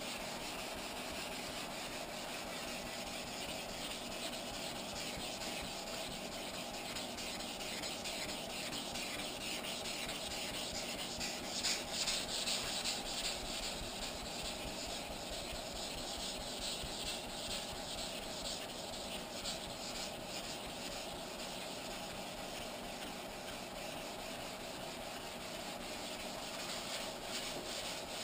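Wet 600-grit sandpaper on a sanding block rubbing back and forth over the primed motorcycle gas tank: a steady rasp of quick strokes, a little louder for a couple of seconds near the middle. The sanding cuts through a light black guide coat to show up low spots in the filler.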